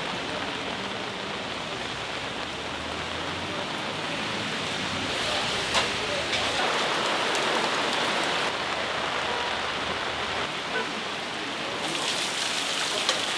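Steady rain falling, with a couple of sharp taps, one about six seconds in and one near the end.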